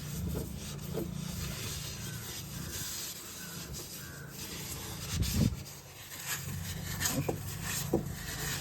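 Hands rummaging in a car's cowl water-collection chamber, scraping and rustling out plastic and paper debris from a rat's nest, with a few knocks from about halfway through over a steady low hum.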